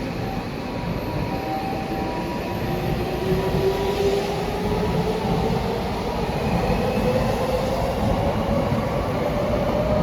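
Electric commuter train accelerating away, its motor whine rising steadily in pitch over a continuous rumble of wheels on rail.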